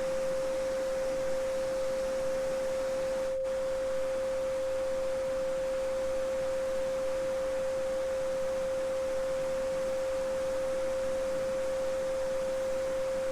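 A steady 528 Hz pure sine tone, the loudest sound, held without change over the even rush of a babbling brook. The brook briefly drops out about three and a half seconds in while the tone carries on.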